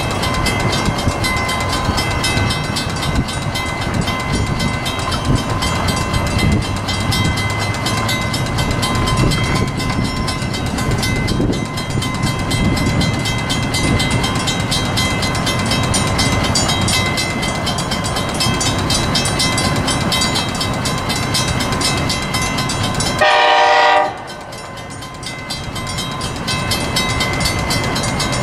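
Train noise with a steady rhythmic clatter and ringing tones, then a locomotive horn sounds one short blast about 23 seconds in, after which the rail noise drops to a quieter level.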